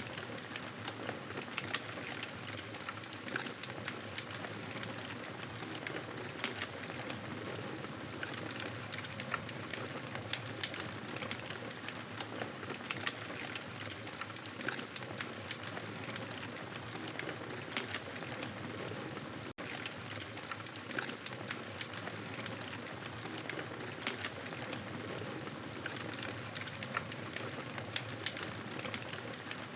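Campfire crackling: a steady hiss dotted with frequent small sharp pops, dropping out for an instant about two-thirds of the way through.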